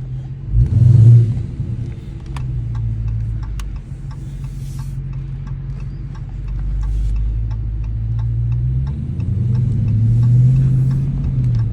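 Dodge R/T's 5.7-litre Hemi V8 idling with a deep rumble. It is blipped sharply about a second in and revs up more gently again near the end.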